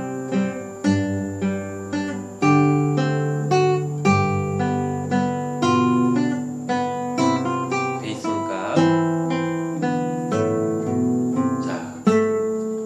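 Classical guitar played fingerstyle: a slow melody of plucked notes, a few a second, over held bass notes in triple time.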